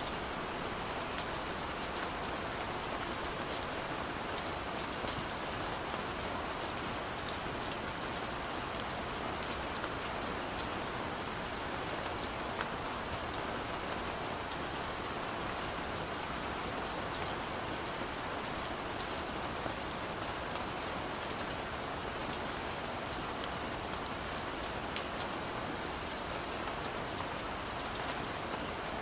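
Steady gentle rain falling, a constant hiss with many individual drops ticking and pattering throughout.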